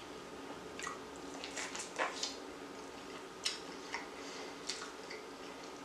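Faint eating sounds of crispy fried chicken: scattered wet mouth clicks and soft crunches while chewing, about eight in all.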